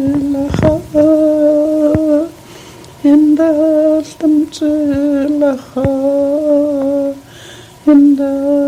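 A single voice singing or humming a slow melody in long held notes, each wavering slightly and lasting about a second, with short breaks between them and a few sharp knocks.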